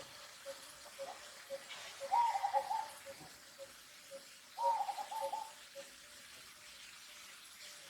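Baby macaque crying: two drawn-out, wavering cries, each about a second long, with a short repeated note about twice a second in the background.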